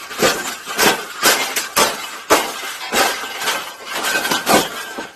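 Repeated sharp smashing and cracking impacts, about a dozen at an uneven pace, as something brittle is broken apart.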